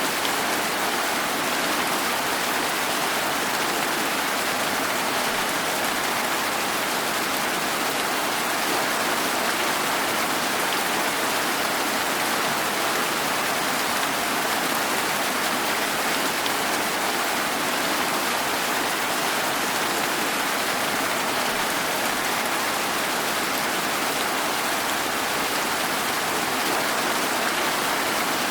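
Steady rain falling, an even hiss of drops without change.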